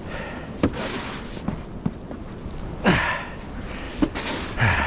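Snow shovel scraping and scooping heavy wet snow, with sharp knocks of the blade, and a man's short grunts of effort twice.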